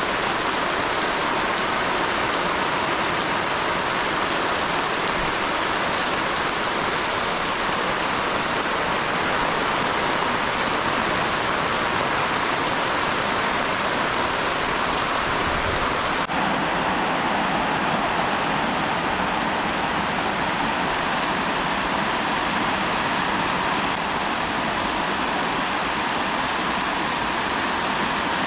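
Heavy rain falling steadily as an even, dense hiss. A little over halfway through, the sound changes abruptly and its highest part drops away.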